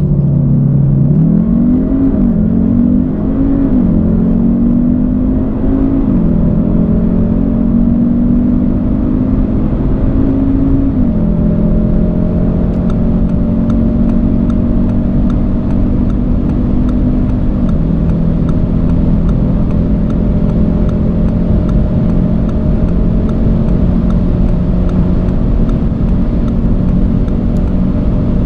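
Turbocharged 2.0-litre four-cylinder car engine under full-throttle acceleration from a standstill. Its pitch climbs through the gears and drops back at five upshifts, each gear pulling longer and more slowly than the one before as speed builds.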